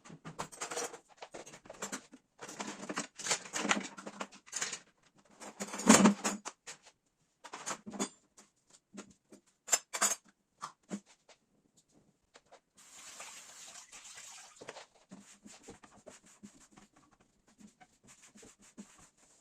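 Household objects being handled and set down: irregular clicks, knocks and clatter, the loudest knock about six seconds in, growing sparser later, with a steady hiss for about two seconds past the middle.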